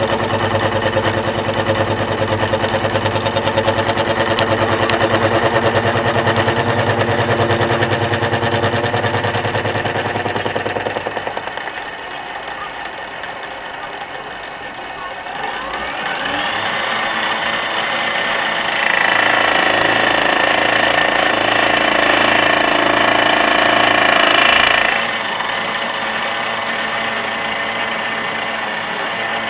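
Milling machine running with a gear cutter taking the final tooth cut in a phosphor bronze gear blank. The machine's hum changes about eleven seconds in, and a louder stretch with a hiss runs from about nineteen to twenty-five seconds in.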